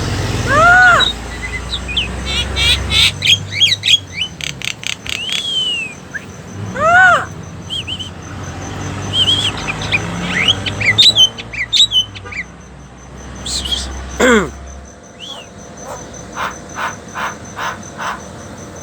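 Birds calling and chirping: loud arching calls about a second in and again about seven seconds in, fast runs of short chirps, and one long falling call about fourteen seconds in.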